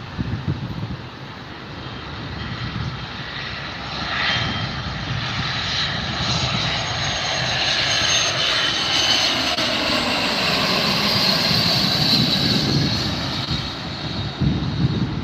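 Jet airplane engines passing: a high whine that grows louder from about four seconds in, with tones sliding in pitch as it goes by, loudest in the second half and easing near the end.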